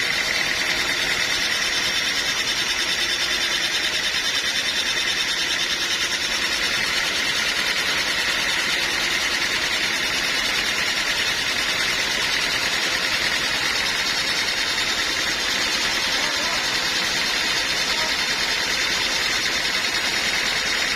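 Sawmill running steadily: an even, unbroken machine noise with a high steady whine.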